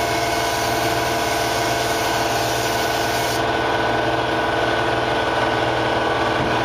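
HVLP spray gun hissing as clear coat is sprayed, with the hiss cutting off about halfway through as the trigger is released, over a steady motor hum.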